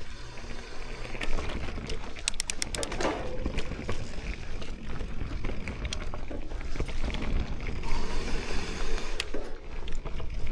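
Mountain bike riding along a dirt trail: steady rumble of tyres and wind on the bike-mounted or helmet microphone, with scattered rattles and a quick run of clicks about two seconds in.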